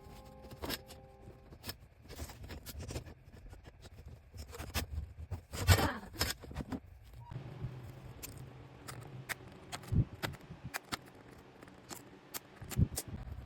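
Sped-up sounds of hands-on DIY work: scattered clicks, knocks and scraping of tools and materials, loudest about six seconds in.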